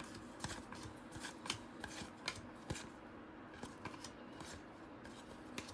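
Faint rustling and scattered light clicks of trading cards and plastic card sleeves being handled.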